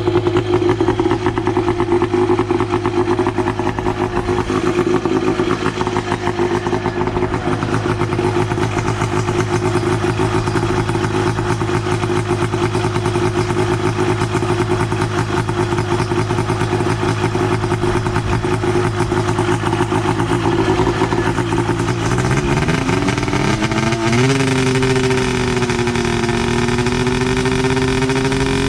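Go-kart's 580cc two-stroke snowmobile engine, from a 1996 Arctic Cat, running at a steady low speed. About 22 seconds in, its pitch rises over a couple of seconds and holds higher.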